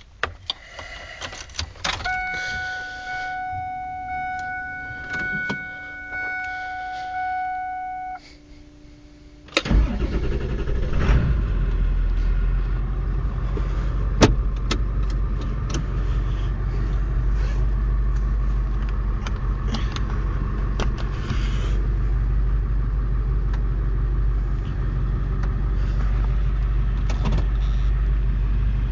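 A car engine cranks and catches about ten seconds in, then idles steadily with a low rumble. Before it there are keys clicking and a steady electronic warning tone lasting about six seconds.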